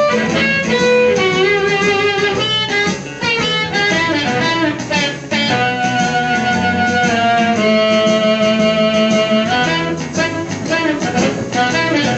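Amplified blues harmonica played through an Astatic 200-S bullet microphone with a vintage 99S556 controlled-magnetic element, with held and bent notes, over a backing track with guitar. One long held note runs through the middle.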